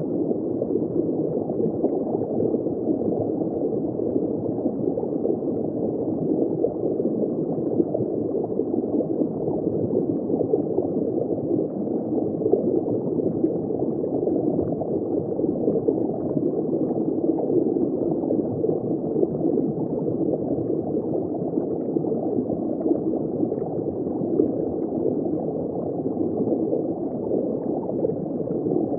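Underwater ambience heard from shallow water: continuous dull, muffled bubbling and water flow, steady throughout, with no high end.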